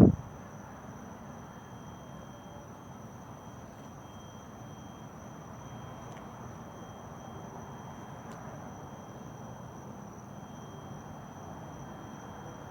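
A steady, thin, high-pitched ringing in the outdoor air, with a fainter lower tone under it and a low background hiss. It seems to come from everywhere and has no visible source. A brief thump comes right at the start and is the loudest sound.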